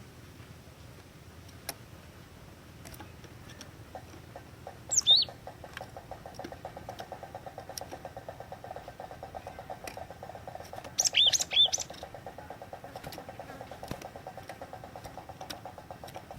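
Glatik watu (cinereous tit) calling: one sharp, high call that sweeps down and then back up about five seconds in, and a quick run of two or three more near eleven seconds. A faint, fast ticking runs underneath from about four seconds in.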